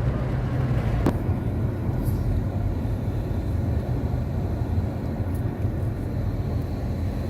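Steady low rumble of a car driving, heard from inside the cabin, with a single sharp click about a second in.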